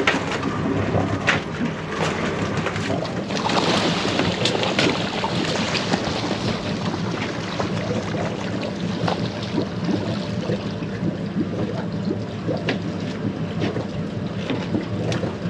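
Crab boat's motor running steadily, with wind on the microphone and scattered knocks and clatter throughout.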